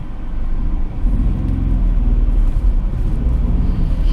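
Hyundai HB20 driving, heard from inside the cabin: a steady low engine and road rumble with a faint engine tone. No knocking from the suspension, whose loose stabilizer links have just been replaced.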